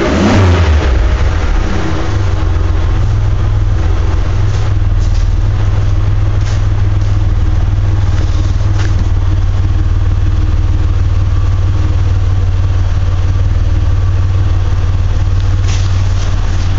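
2004 Chevrolet Monte Carlo LS's 3.4-litre V6 running through an aftermarket SLP dual exhaust. It drops back from a rev in the first couple of seconds, then idles steadily with a low exhaust note.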